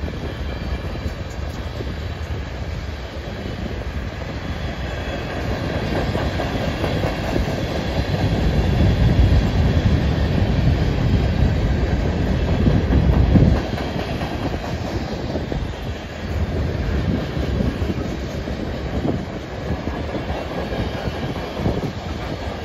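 Freight cars of a passing train rolling by, a steady rumble with wheels clacking over the rails. It swells in the middle and drops off suddenly about halfway through.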